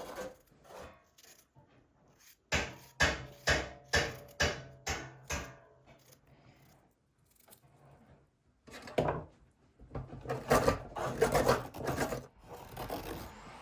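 A run of about seven sharp wooden knocks, roughly half a second apart. After a pause comes a few seconds of rough scraping and rubbing against wood.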